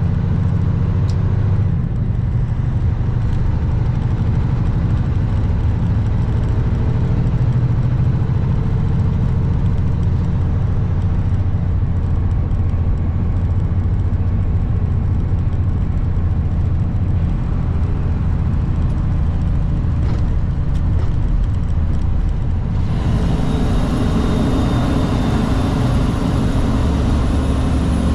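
Kenworth W900 semi truck's diesel engine running steadily under way, with road and wind noise. Near the end the sound shifts abruptly, the engine note changing and more hiss coming in.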